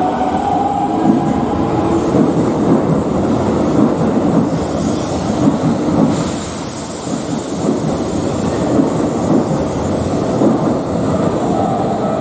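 A Keikyu electric train running over the level crossing, a loud continuous rumble with uneven clatter from the wheels on the rails. A steady warning-bell tone from the crossing shows through near the start and again near the end.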